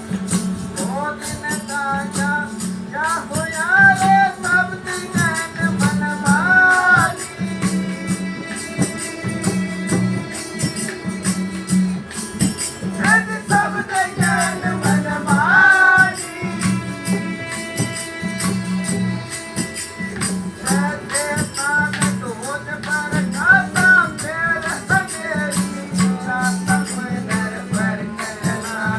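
Devotional bhajan music: a voice sings in phrases, with long held instrumental notes in the gaps between them, over a steady low drumbeat and constant jingling, rattling percussion.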